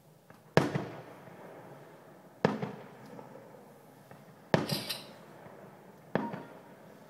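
Fireworks bursting overhead: four loud bangs about two seconds apart, each trailing off in an echoing rumble. The third bang is followed by a brief crackle.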